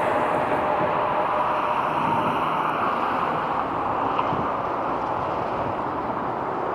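Jet airliner engine noise, a steady loud rush with a faint whine, easing off slightly as the aircraft moves away.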